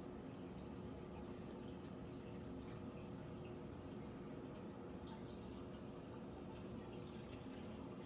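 Faint, scattered short high chirps from distant birds over a steady low hum.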